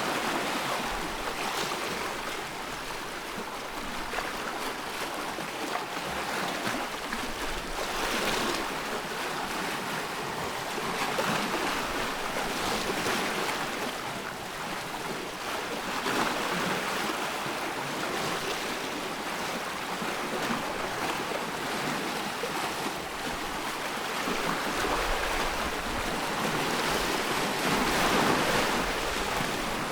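Ocean waves breaking and washing on a shore, swelling and easing every few seconds.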